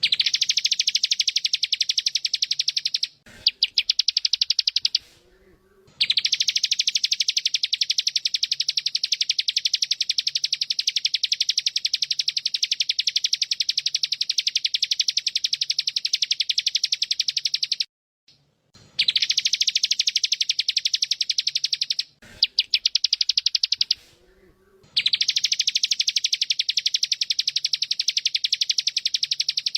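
Bren cicada's loud, very fast pulsing buzz, held in long phrases. It breaks off about three seconds in, again near eighteen seconds and again around twenty-two seconds, with brief fainter calls in the gaps.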